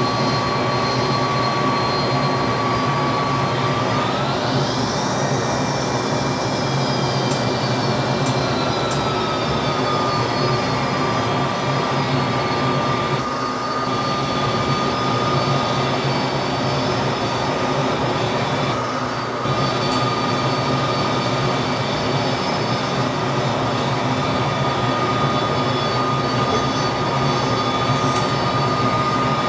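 McDonnell Douglas DC-10's three turbofan engines running at high power, heard as a steady roar with a high engine whine. About four seconds in, the whine climbs sharply as the engines spool up, then eases down and holds steady.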